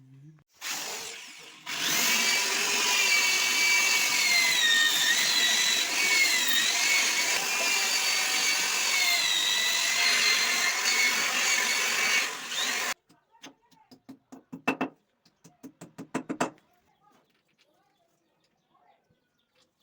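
Handheld electric drill running for about twelve seconds, its motor whine dipping and wavering in pitch as it bites under load, followed by a few seconds of light clicks and knocks.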